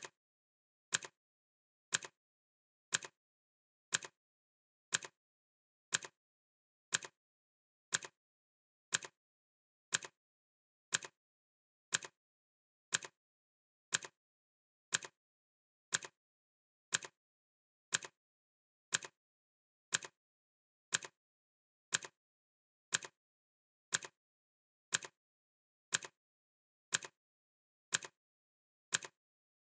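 Clock ticking sound effect: crisp, even ticks exactly once a second, with silence between them.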